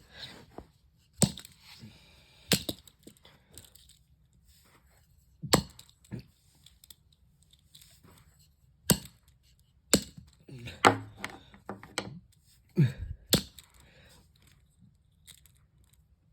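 Old ceiling fan being broken apart by hand: about a dozen sharp cracks and knocks at irregular intervals as a fan blade is bent and snapped off.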